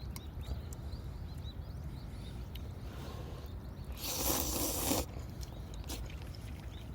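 Wood campfire crackling, with scattered sharp pops over a steady low rumble. About four seconds in, a scraping rustle lasts about a second.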